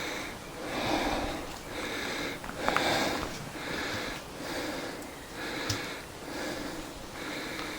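A person breathing hard close to the microphone, in and out about once a second, out of breath from trudging uphill.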